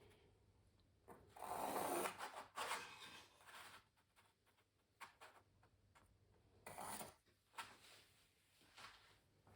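Graphite pencil scratching across canvas in a few drawn strokes: a longer stroke about a second in, another just after, and a short one near the end, with small taps between.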